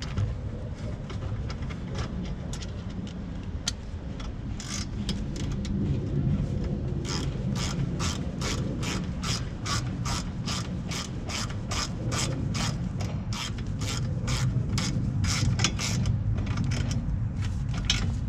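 Ratchet wrench with a 12 mm socket clicking as it tightens the rear brake caliper bolt: a few scattered clicks, then a steady run of about two clicks a second for some ten seconds, over a low steady rumble.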